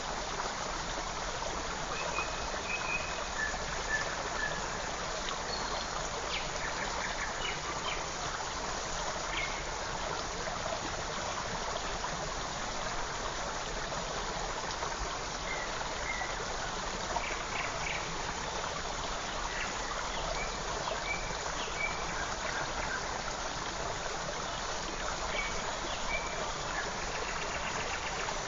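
Forest stream running steadily, with short faint bird chirps scattered through it.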